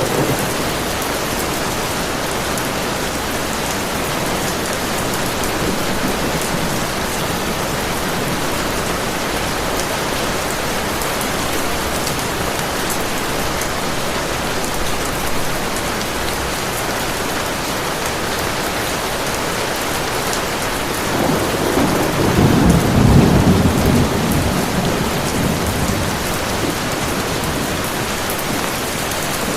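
Heavy rain falling steadily. About two-thirds of the way through, a low roll of thunder builds, peaks and fades over a few seconds.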